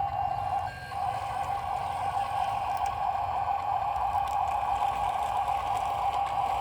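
Dump truck running steadily while driving, a constant drone with a low rumble underneath that dips briefly about a second in.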